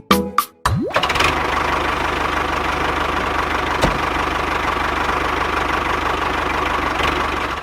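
A few sharp hits, then a small engine on a homemade mini tractor model spins up with a quick rising whine. It then runs steadily with a fast, even low chugging.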